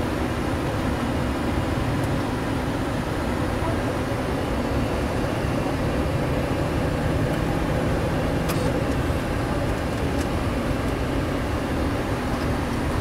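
Steady cockpit noise of a Boeing 737-600: an even rush and low hum from the engines and ventilation, with a couple of faint clicks about two-thirds of the way through.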